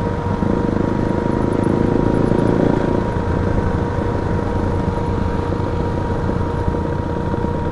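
Motorcycle riding along the road: steady engine running with road and wind noise, a little louder for the first three seconds.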